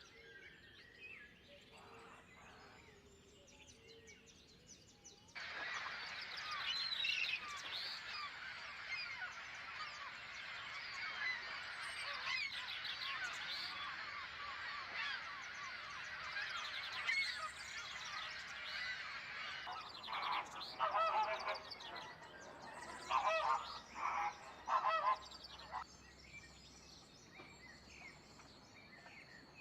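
A dense chorus of many birds chirping, starting suddenly a few seconds in. Later come several loud, harsh calls in quick groups that stand out above the chorus.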